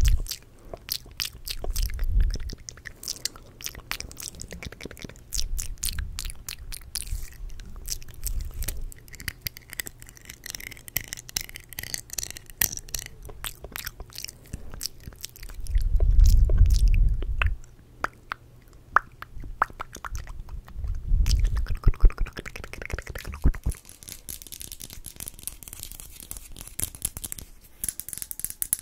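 Close-miked ASMR mouth sounds: wet clicks and smacks in quick, irregular succession. A few low, muffled swells break in, the loudest about halfway through, and the last few seconds turn to a brighter, hissy rustle.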